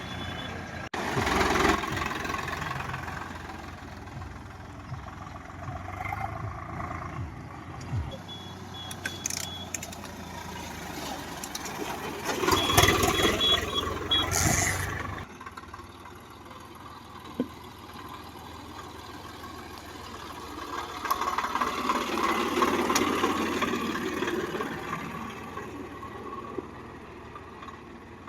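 Tractor engine running, with louder noisy stretches coming and going and two short runs of high beeps.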